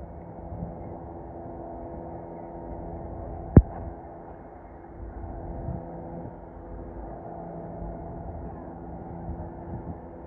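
A steady low mechanical hum holding several fixed tones. One sharp click comes about three and a half seconds in.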